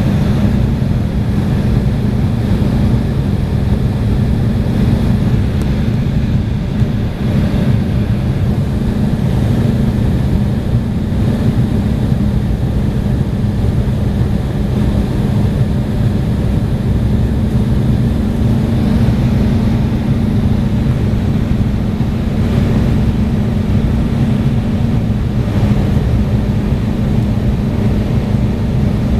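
Steady cabin noise inside an Embraer E175 airliner in flight: the constant drone of its CF34 turbofan engines and rushing air, with a steady low hum underneath.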